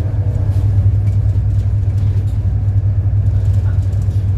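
City bus engine running with road noise while the bus is under way: a steady low rumble.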